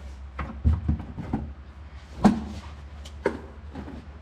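A few scattered clicks and knocks of hand tools being handled at the oil drain plug, the loudest about two seconds in, over a steady low hum.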